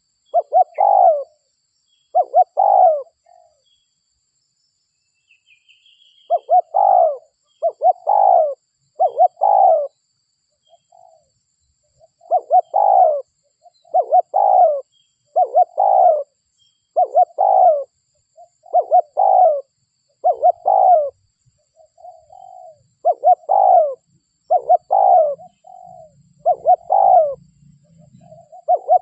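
Spotted dove (derkuku) cooing: a long series of short, low coo phrases about every second or two, broken by a few seconds' pause after the first two. It is a local derkuku's song used as a lure call to draw other doves in.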